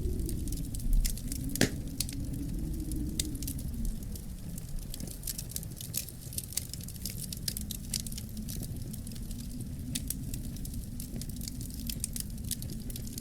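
Fireplace fire crackling, with frequent irregular snaps and pops over a low, steady rumble of flame; one louder pop comes a little over a second in.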